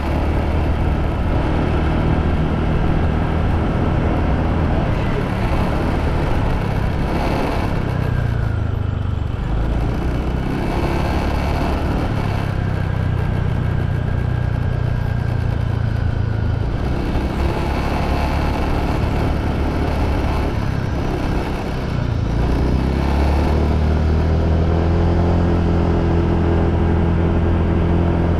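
Motorbike engine running on the move, its pitch easing down about eight seconds in and again a little past twenty seconds, then climbing and holding steady to the end.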